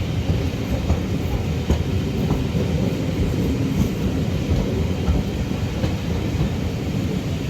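Steam-hauled passenger train running along the line behind a GWR Manor-class 4-6-0, heard from on board: a steady rumble of wheels on rail, with a few faint clicks.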